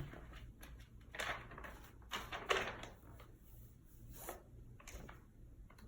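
Faint rustling and handling noises in a small room: a few short soft scrapes, spread a second or so apart, over a low steady hum.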